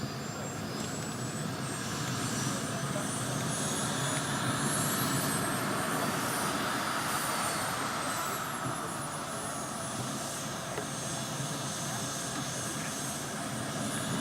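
Model jet turbine of a radio-controlled Messerschmitt Me-163 running in flight. Its high whine rises to a peak, falls away, and climbs again near the end over a steady rushing noise.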